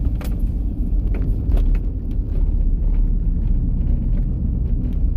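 Steady low rumble of a truck's engine and tyres, heard from inside the cab as it drives slowly, with a few faint clicks.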